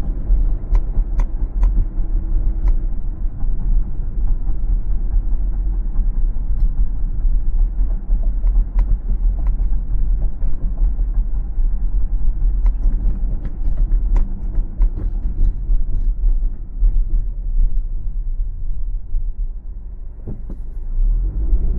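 Road noise of a car driving on a winter road: a steady low rumble of tyres and engine, with scattered sharp clicks and creaks. The rumble eases briefly near the end.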